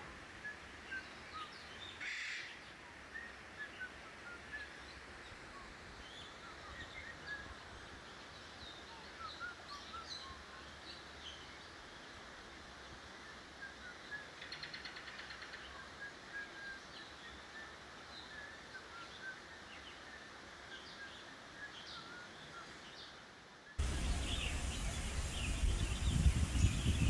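Many small birds chirping and calling in short scattered notes over faint background hiss, with a brief rattling call about halfway through. About three seconds before the end, a louder, busier background noise cuts in suddenly.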